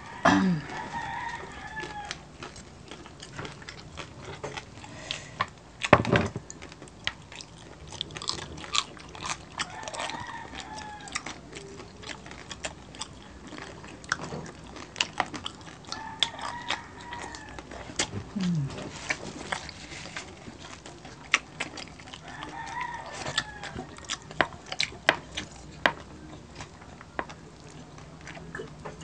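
Crispy roast pork belly crackling being torn, bitten and chewed up close, with crunches and snaps throughout and one louder knock about six seconds in. A rooster crows about four times in the background.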